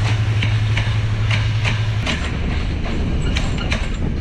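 Passenger train coaches passing close by, their wheels clicking over the rail joints at a quick, even rhythm. A strong low hum drops away about two seconds in as the last coach goes by, and the clicks carry on.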